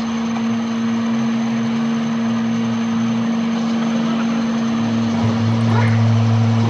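A motor running steadily with a constant hum, joined by a lower drone that shifts in pitch and grows stronger about five seconds in.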